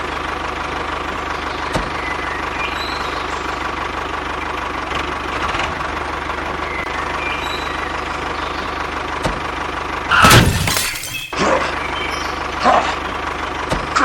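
Small engine running steadily, as of a miniature diesel tractor, with a loud crash lasting about a second about ten seconds in.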